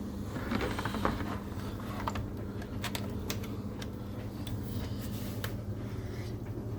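A Bosch tumble dryer and a Miele W360 washing machine running: a steady machine hum with a constant low tone, and a scattering of light, irregular clicks over the first five seconds or so as the laundry tumbles in the drum.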